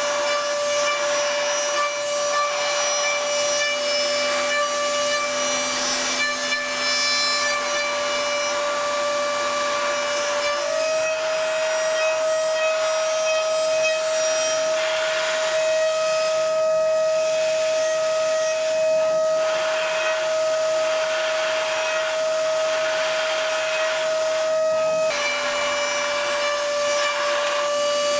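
High-frequency spindle of a DATRON M8Cube CNC milling machine running at high speed and cutting aluminium: a steady high whine over a hiss of cutting noise. The whine steps up slightly in pitch about ten seconds in and drops back a few seconds before the end.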